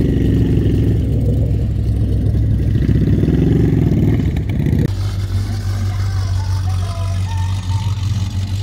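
Classic car engine running with a deep rumble and two brief revs that rise and fall, then about five seconds in the sound cuts to another engine idling steadily with a low rumble.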